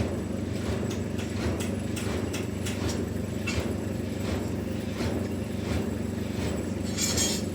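Sawmill machinery running with a steady low drone, with irregular knocks and clatter throughout and a short hiss about seven seconds in.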